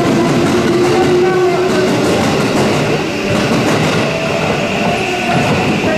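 A JR West electric train running through the station close by: steady rumble and wheel clatter on the rails, with a high whine that strengthens in the second half.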